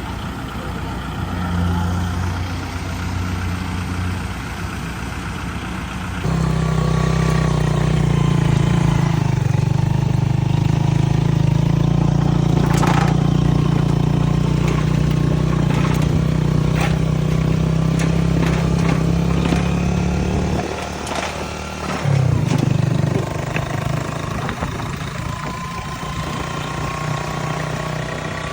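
Rice harvester's engine running steadily. It grows louder about six seconds in, dips briefly after about twenty seconds, then picks up again, with a few sharp clicks partway through.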